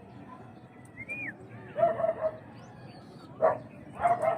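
A dog barking, a few short barks spaced about a second apart.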